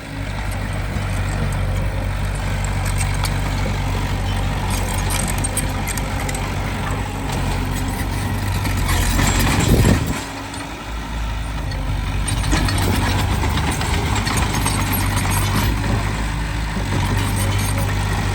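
Heavy construction machinery running with a steady low diesel drone and scattered clanks. A little past halfway it swells to its loudest, then drops back suddenly.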